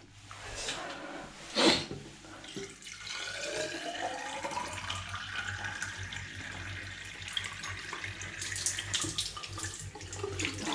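Water running from a tap, its tone rising as the water fills a vessel below. A sharp knock about a second and a half in.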